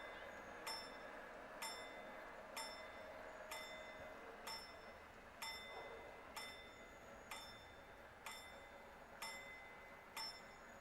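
Level-crossing warning bell of an old WSSB relay crossing installation striking about once a second with a clear ringing tone, signalling that the barriers are closing; the strikes stop shortly before the end.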